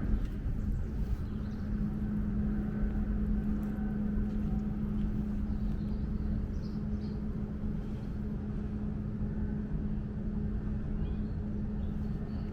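Steady engine drone of a vehicle: a constant low hum with rumble underneath, unchanging throughout.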